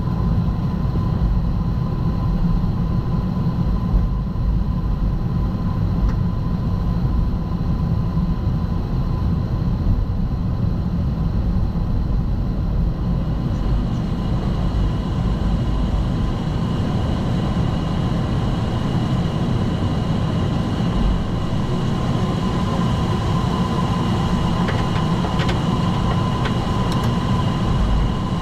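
Boeing 757-200 freighter flight-deck noise after landing: a steady low rumble of the idling engines and rolling airframe, with a thin steady whine, and a second higher whine coming in about halfway through.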